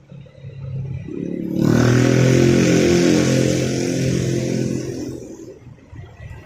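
Motorcycle passing close by on the street: its engine grows louder about a second in, stays loud for a few seconds, then fades away.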